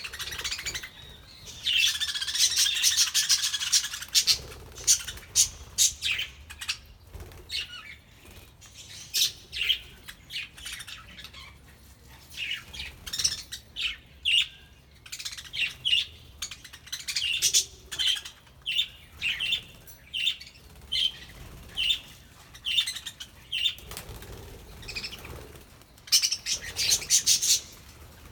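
A flock of budgerigars chirping in quick, short, high calls, with wing flapping. There are busy bursts of chatter about a second in and again near the end, and single calls one or two a second in between.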